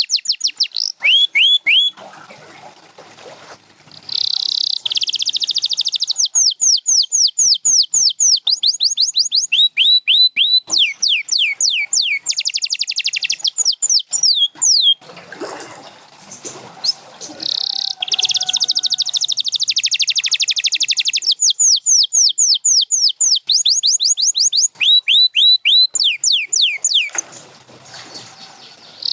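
Canary singing: a long song of fast, rolling trills and rows of rapidly repeated sweeping notes, broken by a few short pauses.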